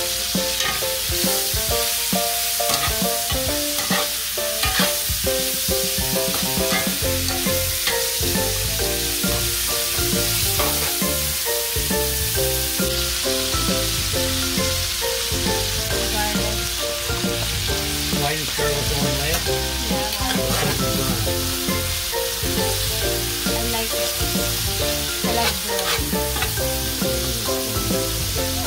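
Sliced onions and bell peppers sizzling as they sauté in a cast-iron skillet in the chicken's drippings, with metal tongs stirring and clacking against the pan now and then. Background music plays underneath.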